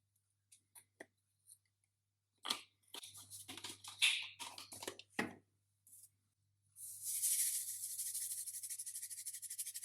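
Kitchen utensils clatter and knock for a few seconds. Then, near the end, a steady high sizzle starts, like food frying in hot oil.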